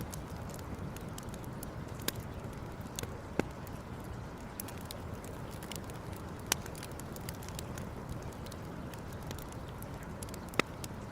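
Campfire crackling, with many small ticks and four sharp, loud pops from the burning wood, over a steady low rush.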